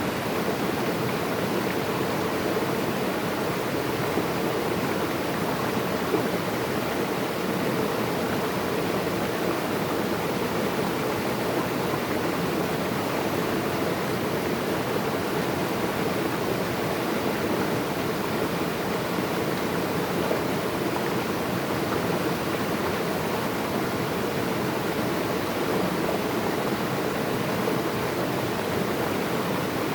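Flowing water rushing steadily and evenly, like a stream or small waterfall, with no breaks or changes.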